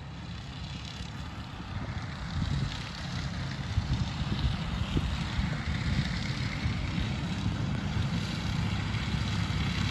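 Tractor engine running steadily as the tractor mows down corn stalks, growing gradually louder over the first few seconds.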